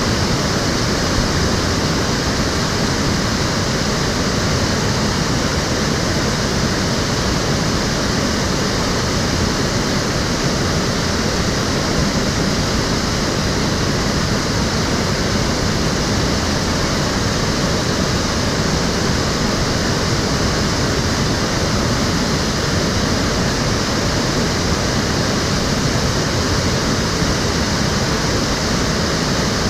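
Water of the Cheonggyecheon stream flowing, a steady, even rushing with no break or change.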